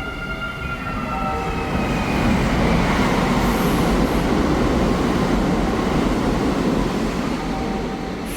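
A train passing: a rushing rumble that builds to a peak a few seconds in and then eases off, with a whine of several steady tones that slide slightly down and fade in the first two seconds.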